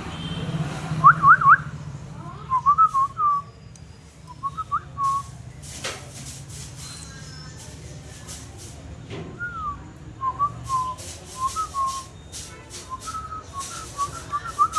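Indian ringneck parrot whistling in short runs of quick up-and-down pitch slides, with pauses between the runs. A couple of sharp clicks come about six and nine seconds in.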